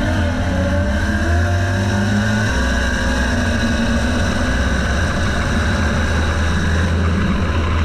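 Drag car engine running loud and steady, its low note shifting slightly about two and a half seconds in.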